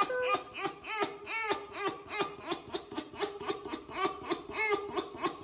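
Tame red fox giggling as its belly and chin are scratched: a long string of short, laugh-like pulses, about four or five a second.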